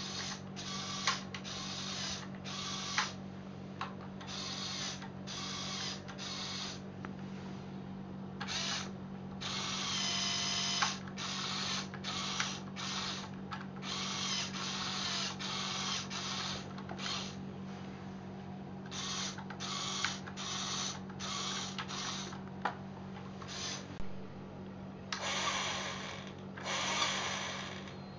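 Electric motors and plastic gears of a remote-controlled Lego Technic truck whirring in many short bursts, stopping and starting, with clicks between bursts over a steady low hum.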